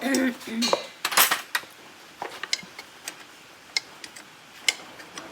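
Metal hand tools clinking against one another, with a cluster of loud clinks about a second in and scattered light clicks after.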